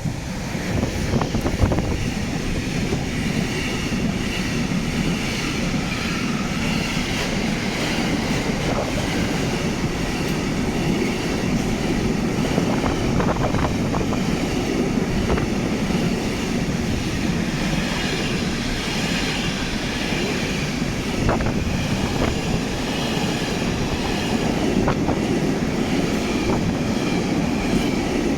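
Freight train running through close by: a steady rumble of wagons with wheels clacking over rail joints, loud from the start.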